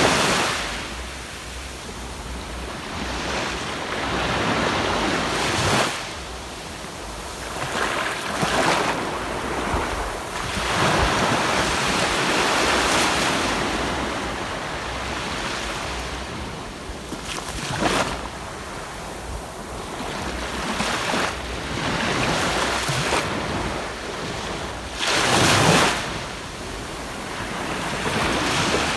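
Surf breaking and washing up a sandy beach, rising and falling in swells every few seconds, with wind buffeting the microphone.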